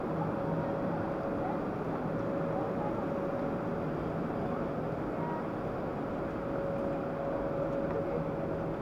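Steady mechanical drone of a passenger train standing at the platform with its machinery running, with a constant hum and a steady tone over it.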